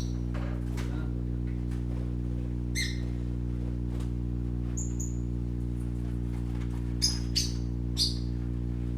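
Pet parakeets giving short high chirps: one about three seconds in, another about halfway, and three in quick succession near the end, over a steady low electrical hum.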